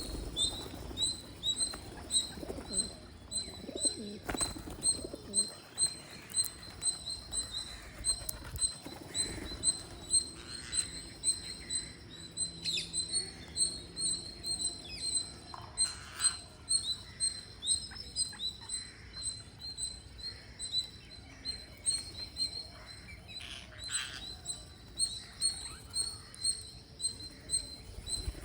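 Birds calling: a short, high chirp repeated steadily about twice a second, with occasional low cooing underneath.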